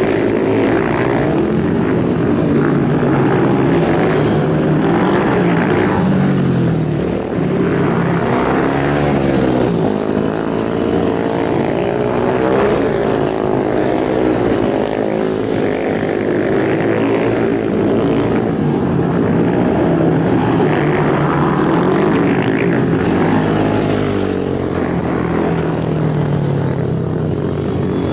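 Several superbike engines running hard, their pitch repeatedly rising and falling as they rev and shift, with overlapping engine notes.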